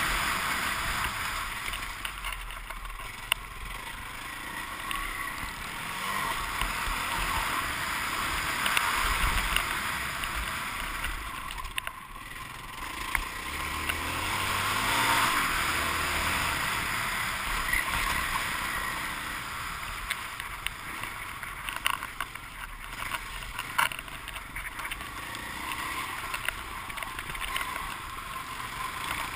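Motocross bike's engine running hard, its level rising and falling every few seconds as the rider accelerates and backs off, with a few sharp knocks.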